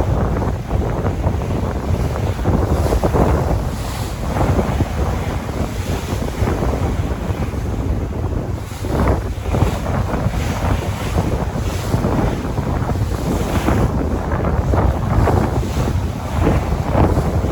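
Sea waves breaking and washing in irregular surges, with strong wind buffeting the microphone as a constant low rumble.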